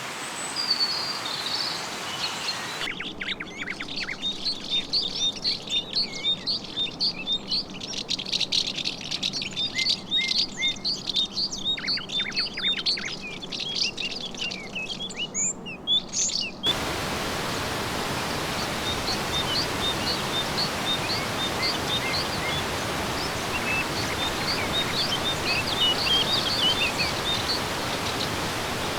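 Rainforest ambience: many birds chirping in quick, short, high calls over a steady hiss. The background changes abruptly about three seconds in and again a little past halfway.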